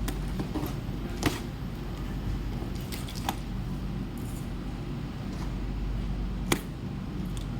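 Plastic packing straps being cut and pulled off a carton: a few short sharp snaps and clicks, spread out, over a steady low hum.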